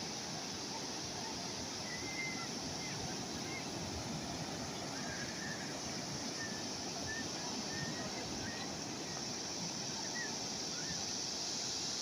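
Calm sea waves washing steadily on the shore, with a few faint, short chirps over the top.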